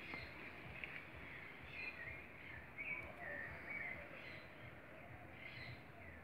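Birds chirping faintly: short high calls and warbles every second or so, over a steady low background rumble.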